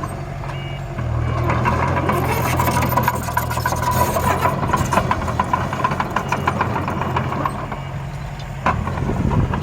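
Steady engine drone of a miniature construction machine with a dense rattle of ticks, growing louder about a second in. A high steady tone sounds over it through the first half.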